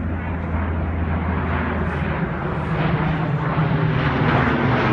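Engines of a low-flying transport aircraft droning overhead, growing steadily louder as it approaches.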